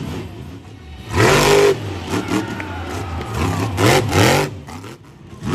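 Monster truck engine running, with two loud revs about a second in and around four seconds in, the pitch rising with each, and another rev starting at the very end.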